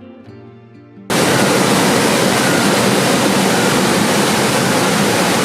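Soft guitar-led background music for about the first second, then a sudden cut to the loud, steady rushing of a waterfall.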